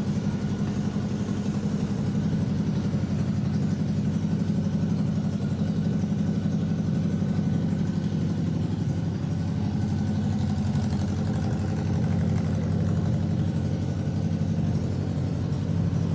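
An engine idling steadily, a low even hum with no revving.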